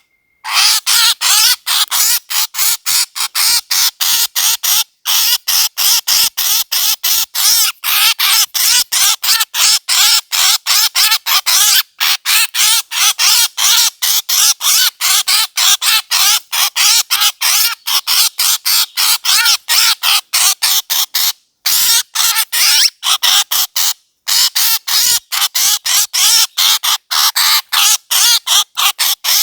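A bird call used as a hunting lure: a harsh, squawking call repeated rapidly, several times a second, with a few short breaks.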